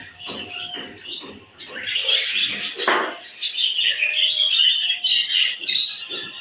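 Many small aviary birds chirping and chattering together in short, overlapping calls. A brief rustling burst comes about two seconds in.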